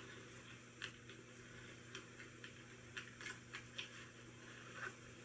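Faint, irregular soft clicks and ticks of eating, mouth sounds and food being handled, over a low steady hum.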